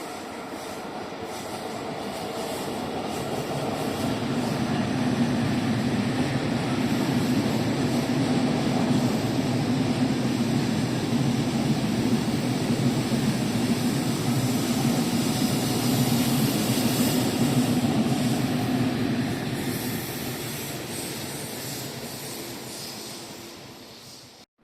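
A train passing by, growing louder over the first five seconds, holding steady for about fifteen seconds, then fading away. The sound cuts off suddenly at the end.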